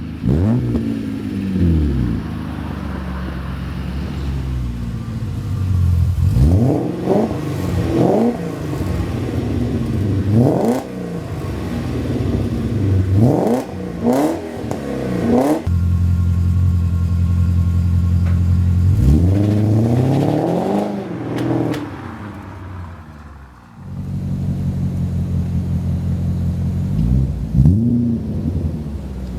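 BMW E34 engine and exhaust, idling and being revved repeatedly in short blips that rise and fall in pitch, with a steady idle in between.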